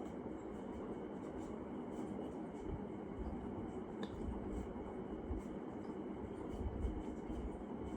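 Steady rumbling noise of a bicycle ride, with uneven low wind buffeting on the microphone and a few faint ticks.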